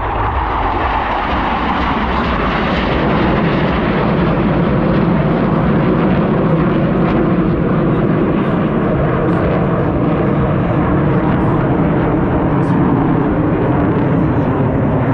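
Jet noise from a formation of F/A-18 Super Hornets, each with twin GE F414 turbofans, passing through a loop. It is a loud, continuous rumble that builds over the first few seconds, then holds steady.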